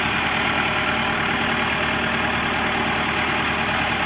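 1990 Case 585 tractor's 3.4-litre four-cylinder Case diesel engine running steadily at an even, unchanging speed.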